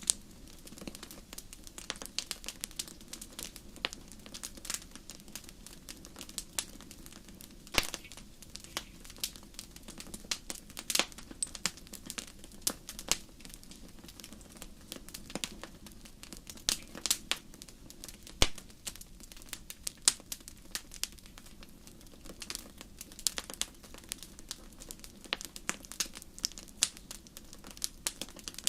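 Wood fire crackling in a fireplace: irregular sharp pops and snaps, a few much louder than the rest, over a steady low rush of flame.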